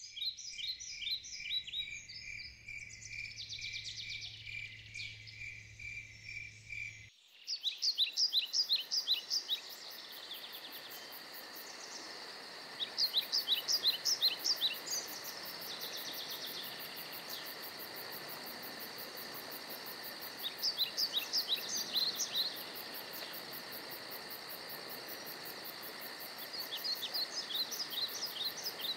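Outdoor nature ambience: birds singing in repeated short bursts of quick, downward-sliding notes over a steady chorus of insects. For the first seven seconds a rapid pulsing high call sits over a low hum, then the ambience changes abruptly to a louder insect chorus with hiss.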